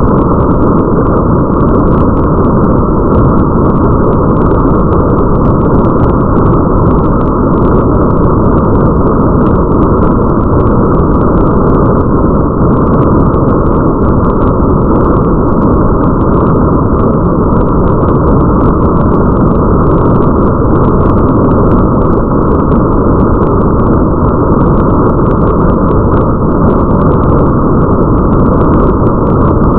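Steady, muffled rain ambience: a dense, even wash of rain with the highs cut away, and faint scattered drop ticks over it.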